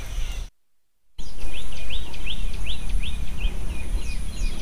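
A bird repeats a short rising chirp about three times a second over a steady high insect whine and a low rumble. The sound drops out for about half a second near the start.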